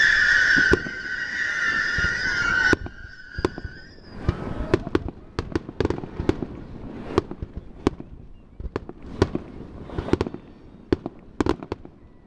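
Fireworks: a shrill steady whistle from a whistling firework that cuts off suddenly under three seconds in, followed by an irregular string of sharp cracks and pops from exploding shells.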